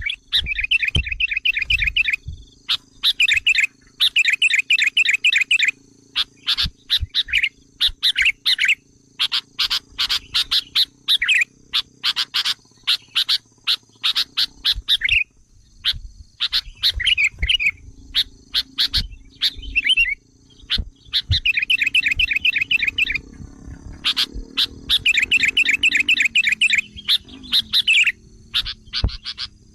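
Sooty-headed bulbuls (kutilang) calling in an excited lure recording: rapid chattering trills of a second or two, repeated with short gaps and mixed with sharp single chips. It is an agitated call meant to provoke wild bulbuls.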